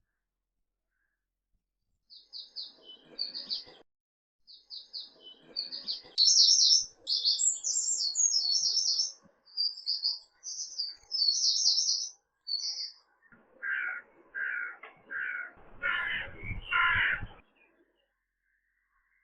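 Songbirds chirping in quick high trills for about ten seconds, then about five lower, harsh calls from a larger bird near the end, with a low rumble under the last two.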